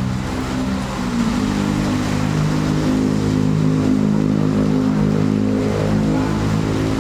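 A road vehicle's engine running close by, its pitch stepping up about a second in and then holding steady, over a noisy background of traffic.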